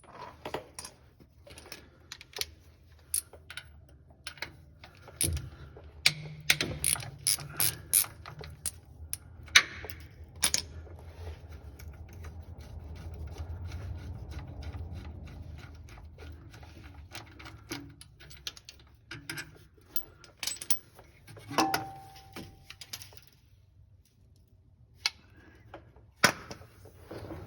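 Ratchet wrench clicking in irregular runs, with metal clinks from the socket and extension, as the starter's mounting bolts are backed out.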